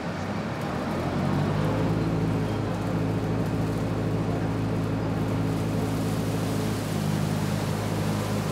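Tractor running with a straw chopper working off it. The engine and chopper come up to speed in about the first second, then run at a steady drone.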